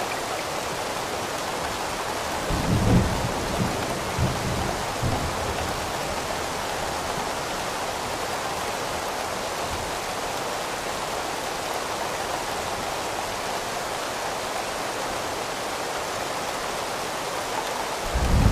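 Steady heavy rain with low thunder rumbling, a few rolls of it about three seconds in and another starting near the end.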